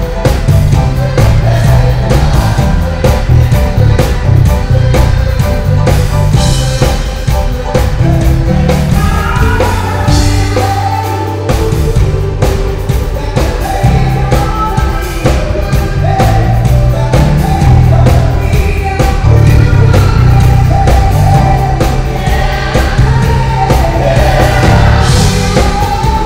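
Live gospel band playing, with a prominent electric bass, drum kit and group singing.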